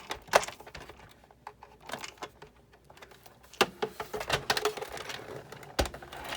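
Screws being tightened into a Sizzix Big Shot die-cutting machine with a screwdriver: irregular clicks and light knocks of tool and parts. The sharpest knock comes under half a second in, and a dull thump comes near the end.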